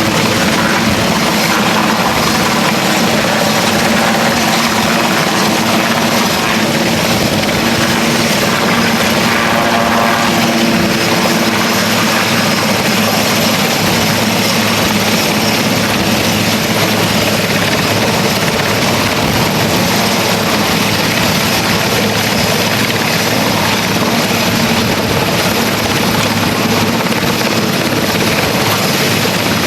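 Helicopter rotors and turbine engine running steadily and loudly for the whole stretch, with no clear rise or fall.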